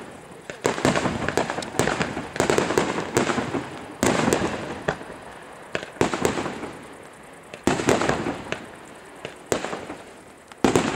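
Aerial firework shells bursting in quick clusters: a dozen or so sharp bangs, each trailing off in a fading rumble before the next ones.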